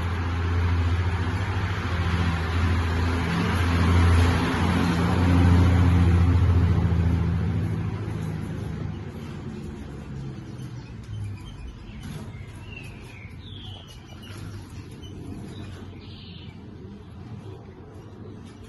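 A motor vehicle's engine runs with a low hum for the first several seconds, then fades away. A few short bird chirps follow, about twelve seconds in and again a few seconds later.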